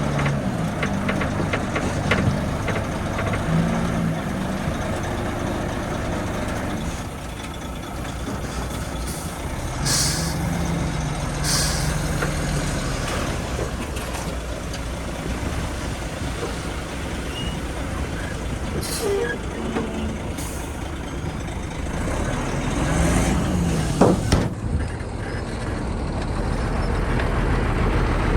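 Heavy diesel earthmoving machinery, a dump truck and a bulldozer, running with the engine pitch rising and falling, and four short air-brake hisses.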